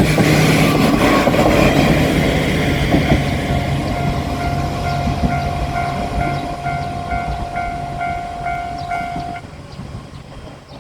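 A diesel railcar runs past and away, its rumble fading. Meanwhile the level crossing's warning bell rings in a regular clanging beat of about two strikes a second, heard more plainly as the train fades, and it stops about nine seconds in.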